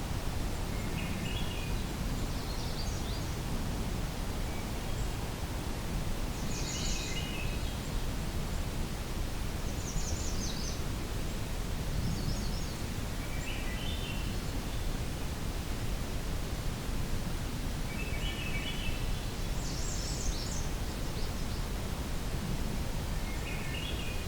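Swainson's thrush singing, a short upward-spiralling phrase every few seconds, over a steady low hiss.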